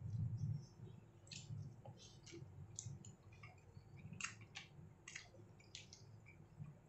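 Close-up eating sounds: wet chewing with about a dozen irregular mouth clicks and lip smacks as fried rice is eaten by hand. A short low sound comes right at the start.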